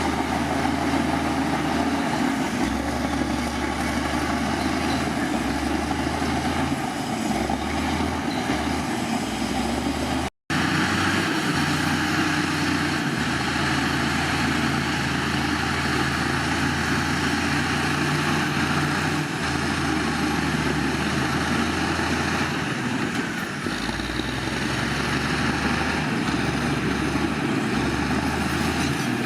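Heavy diesel earthmoving machinery running steadily, its low engine note shifting in pitch now and then, with a sudden break in the sound about ten seconds in.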